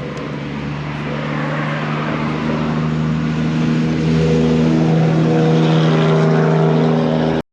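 Small motorbike engine running at a steady speed. It grows louder over the first few seconds, holds, and cuts off suddenly near the end.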